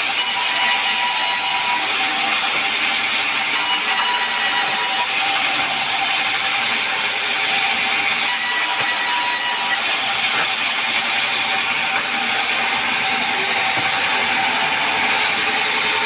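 Sawmill saw running steadily: a loud, even noise with a few faint steady whines, with no pauses or changes.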